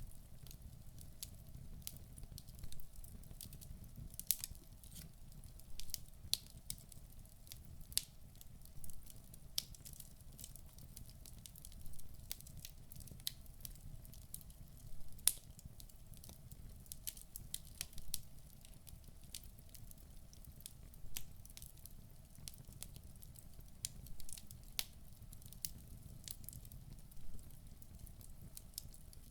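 Wood fire burning in a fireplace: a low steady rumble of flames with frequent sharp, irregular crackles and pops from the burning logs.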